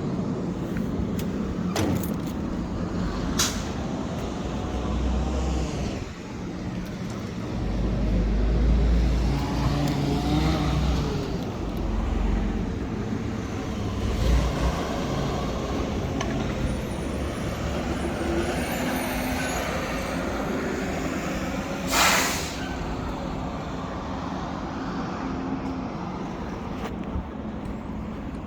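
Fire engine running with a steady low engine noise that swells for a few seconds, with a couple of sharp knocks in the first few seconds. About two-thirds through comes a short, sharp hiss of air from the air brakes.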